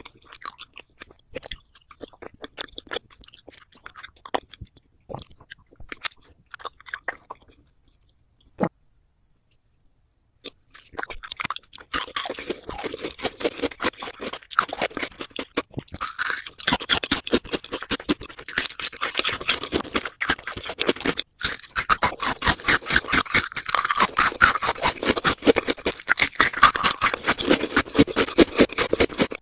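Chewing of jelly candies and sugar-coated gummies. It starts as sparse, soft sticky clicks, goes quiet for about two seconds, then turns into dense, louder crunchy chewing for the rest.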